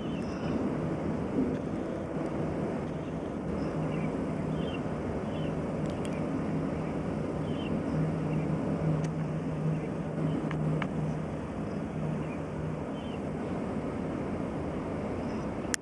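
A motor running steadily with a low, even hum over a rumbling wash, the hum growing a little stronger about halfway through. Short faint chirps sound now and then above it.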